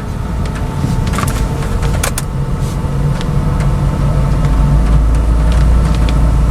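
Car driving, heard from inside the cabin: a steady road and engine rumble with scattered short ticks. The deep rumble grows stronger about halfway through.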